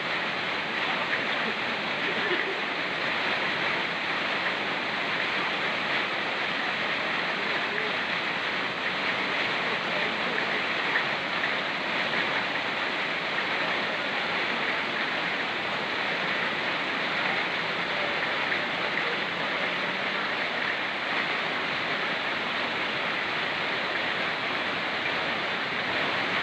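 Steady rushing of a swift mountain stream with rain falling, an even hiss without breaks or strong single events.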